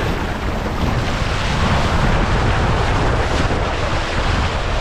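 Steady rush of water and air during a ride down a water slide on a mat, with wind buffeting the microphone.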